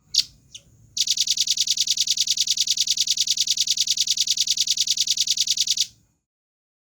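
Velvet-fronted nuthatch singing: two short sharp high notes, then a fast, even trill of about nine notes a second lasting about five seconds that stops abruptly.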